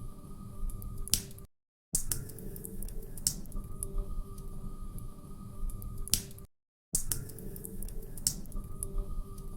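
Wood fire crackling in a fireplace: irregular sharp snaps and pops over a low steady rumble. The sound cuts out for a moment twice, about one and a half and six and a half seconds in, and the same short stretch of crackle repeats each time.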